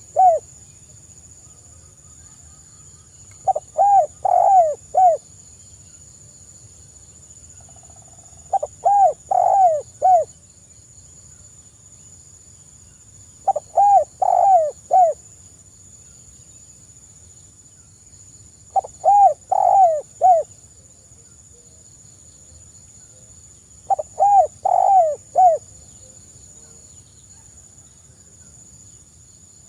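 Spotted dove cooing its song phrase over and over, about once every five seconds; each phrase is a quick run of four or five rising-and-falling coos.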